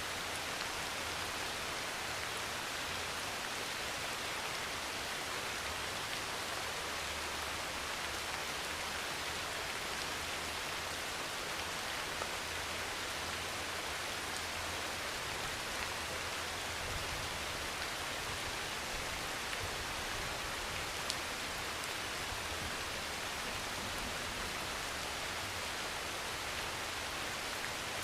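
Heavy rain pouring steadily on a metal roof, an even hiss with a few louder single drop ticks.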